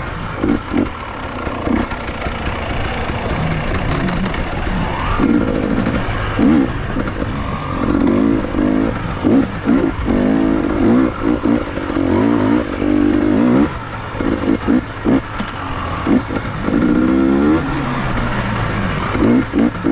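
Two-stroke enduro motorcycle engine under repeated throttle: revving up and backing off again and again, with short dips between.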